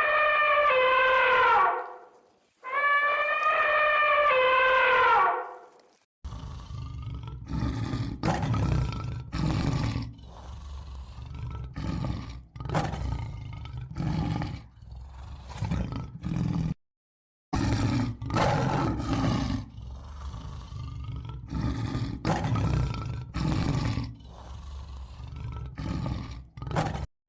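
Two loud elephant trumpet calls, each falling in pitch, then a long series of deep, rough roars and grunts in short bursts from a large animal.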